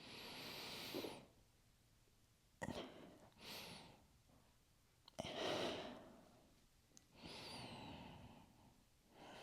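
A woman breathing slowly and deeply, about four long audible breaths with short pauses between them.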